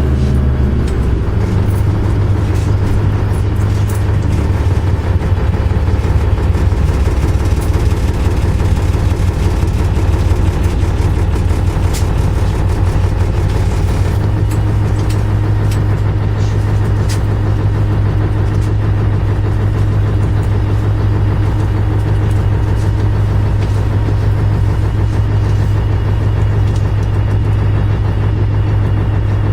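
MAZ-104 city bus heard from inside the passenger cabin on the move: a steady low engine and drivetrain drone, with scattered light rattles and clicks.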